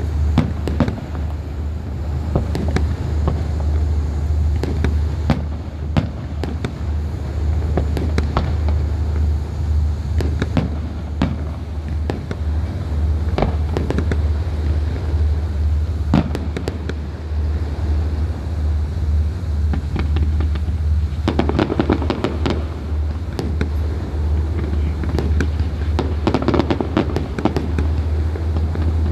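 Fireworks going off: a string of sharp bangs with bursts of dense crackling about two-thirds of the way through and again near the end, over a steady low hum.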